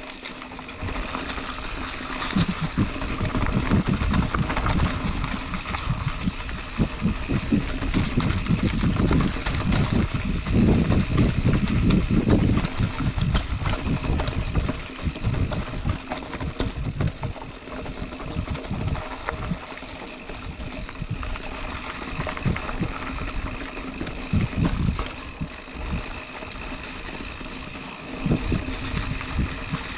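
A Specialized Chisel hardtail mountain bike riding down a rough dirt trail: tyres rolling and rattling over rocks and roots, with the frame and drivetrain clattering. Uneven wind rumble buffets the action-camera microphone, loudest in the middle stretch.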